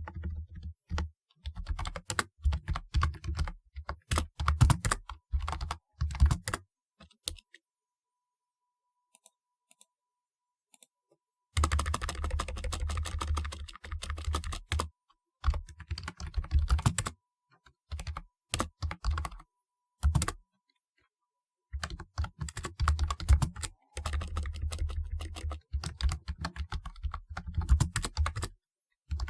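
Typing on a typewriter-style computer keyboard: quick runs of key clicks. There is a pause of a few seconds about a third of the way in, and shorter breaks later.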